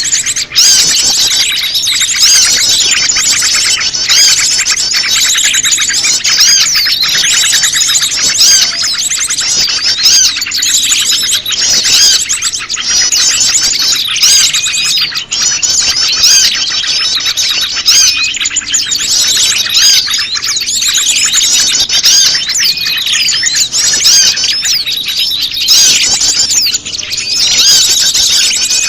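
Bird-lure recording: a dense chorus of many small birds chirping and trilling over one another without a break, prenjak lumut calls mixed into a noisy flock.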